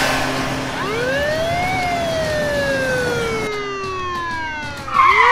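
Police siren wail, one slow rise and a longer fall, with a second rise starting near the end. A brief loud burst sounds just before the end.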